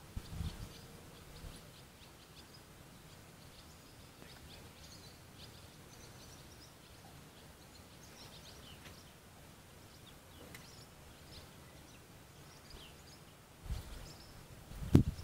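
Faint outdoor ambience with small birds chirping in the distance, short high chirps scattered throughout. Low rumbling bumps come at the very start and again, louder, near the end.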